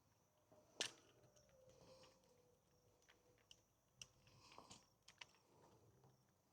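Near silence broken by a few faint, sharp clicks and knocks, the sharpest about a second in.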